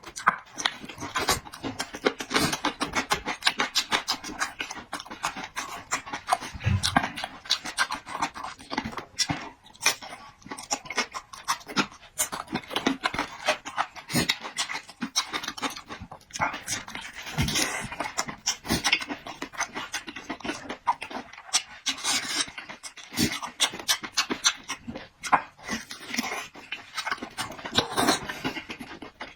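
A person eating close to the microphone: rapid wet chewing, lip smacks and slurps, with noisy breaths in between.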